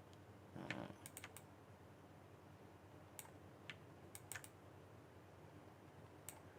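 Faint, scattered computer mouse and keyboard clicks, coming singly or in quick groups of two or three. A short soft rustle a little after the start is the loudest sound.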